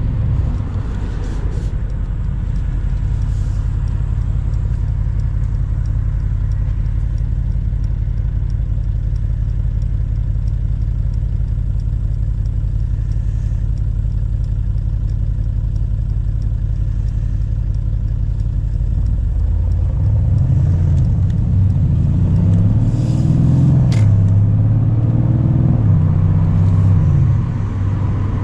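Mercedes-AMG C63 Cabriolet's 4.0-litre twin-turbo V8 running at steady revs while cruising. About two-thirds of the way through, the engine note rises and falls several times as the car is driven harder, then settles lower near the end.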